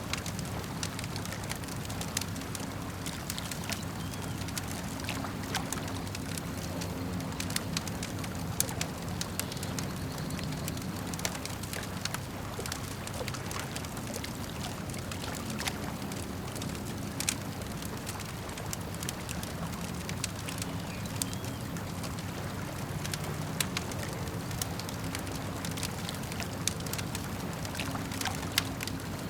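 Campfire crackling, with frequent sharp pops and snaps of burning wood over a steady low rumble of lapping lake water.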